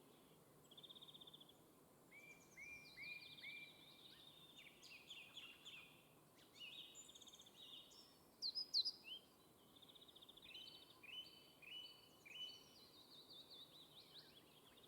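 Birds chirping: many short notes in quick repeated series, overlapping throughout, with a louder cluster of calls about nine seconds in.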